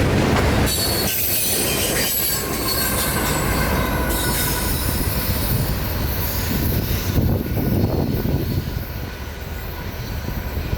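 Tail end of a CSX freight train rolling past close by, with its rear distributed-power ET44AH locomotive: steel wheels running on the rails with steady, thin wheel squeal over a rumble. The high squeal fades about seven seconds in.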